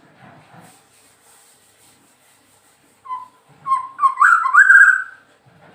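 White-rumped shama singing: a faint high trill early on, then about three seconds in a loud phrase of fluting whistles that glide up and down, lasting about two seconds.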